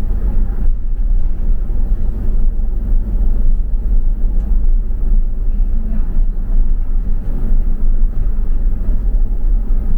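Double-decker bus in motion heard from inside, a steady low rumble of engine and road noise.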